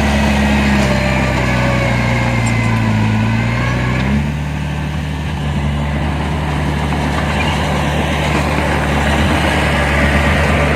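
Heavy diesel engine of earthmoving machinery running under work. Its note wavers for about four seconds, then changes abruptly and runs steady.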